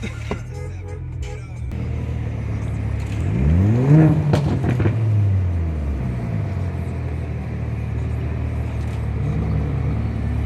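Car engine and exhaust running with a steady low drone, then revving up sharply about three seconds in and dropping back over the next two seconds; a smaller rev comes near the end.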